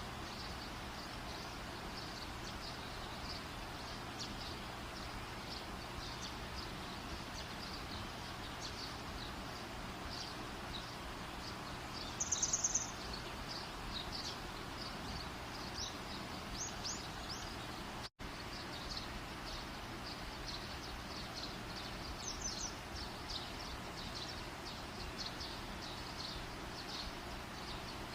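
Outdoor night ambience: a steady hiss with a constant stream of short, high insect chirps, a brief rapid bird call about twelve seconds in, and the sound cutting out for an instant about eighteen seconds in.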